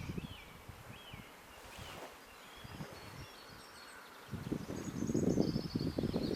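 Small birds chirping repeatedly, with gusts of wind buffeting the microphone. The wind eases for a couple of seconds, then picks up again about four seconds in.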